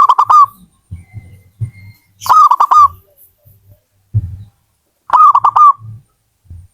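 Zebra dove (perkutut) cooing: three phrases, each a quick run of about four notes, repeated every two to three seconds. Soft low muffled thumps fall between the phrases.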